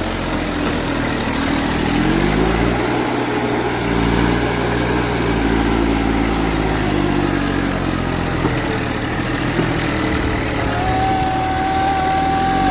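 Heavy diesel engine running and revving under load. Its pitch climbs about two seconds in, eases down around seven to eight seconds, and rises again near the end. A steady high whine joins for the last two seconds.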